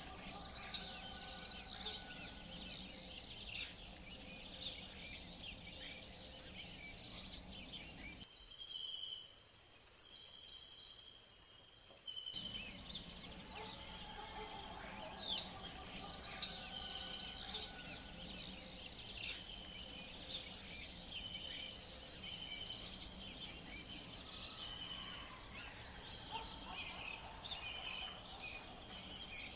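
Tropical forest ambience: assorted birds chirping and calling, joined about eight seconds in by a steady, high-pitched insect trill with short repeated high notes over it.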